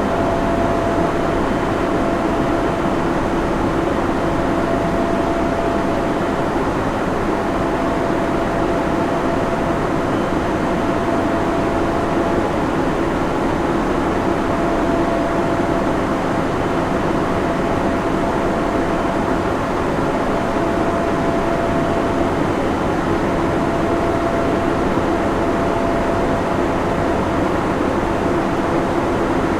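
Server room ambience: the steady whir and hum of cooling fans, with a faint high tone that fades in and out.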